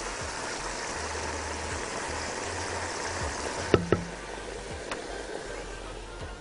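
Tomato paste sizzling in hot oil and vinegar in a pot as it is stirred with a silicone spatula, a steady hiss with a couple of light knocks of the spatula against the pot about four and five seconds in.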